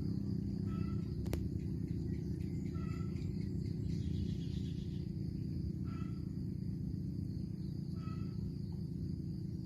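Outdoor ambience: a steady high insect buzz like crickets, with a short chirp repeated about every two seconds over a continuous low rumble. A single sharp click sounds about a second in.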